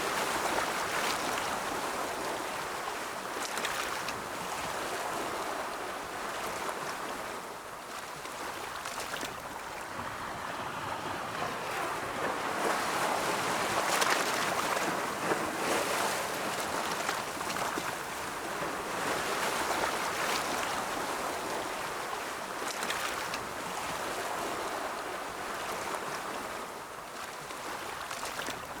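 Ocean waves breaking and washing on a shore, a steady hiss of surf that swells and ebbs every few seconds.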